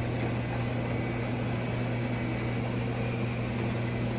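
Shark robot vacuum running, a steady, unbroken motor hum with a strong low tone.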